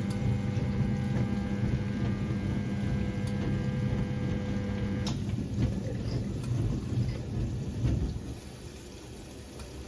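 Siemens WA4600 washing machine in its wash phase: the motor hums steadily while the drum turns, then cuts out about halfway. Water and wet laundry slosh on and die down near the end, the pause between the drum's tumbling turns.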